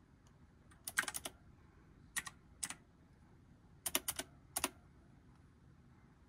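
Computer keyboard keys being typed in short, scattered groups of clicks as a nickname is entered.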